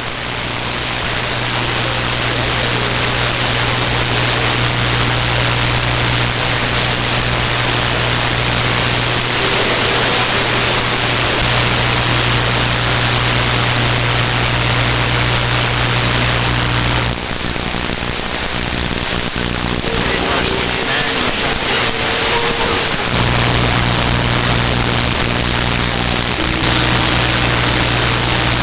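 CB radio receiver hiss on the 11-metre band: a loud, steady rush of static through the radio with a low hum underneath and faint tones. The hum cuts out about 17 seconds in and comes back about 6 seconds later.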